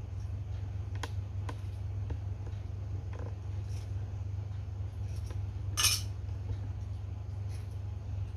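Scattered light clicks and taps of small hard objects, with one louder clink about six seconds in, over a steady low hum.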